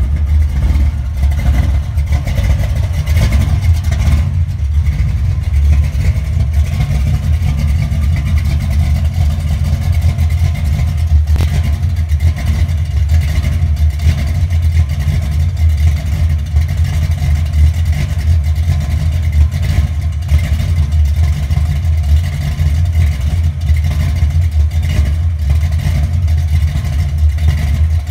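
1970 Ford Maverick's engine idling steadily, a low, even exhaust rumble with no revving.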